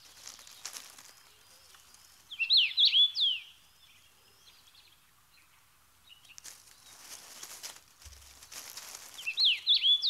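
Brambling chirping: two short runs of quick, high, sliding call notes, one about two seconds in and one near the end.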